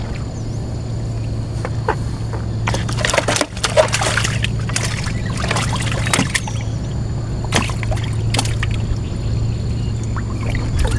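Water splashing and trickling in several bouts as a fishing line and hooks are handled at the surface, over a steady low hum.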